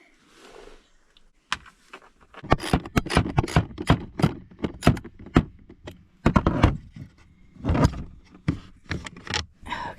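Irregular metallic clicks, knocks and clanks of a ratcheting wrench and bolts being worked loose in a truck.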